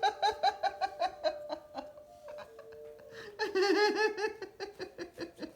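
Laughter in a rapid run of short ha-ha pulses, about six a second. It fades about two seconds in and comes back louder a second or so later, over soft background music with held notes.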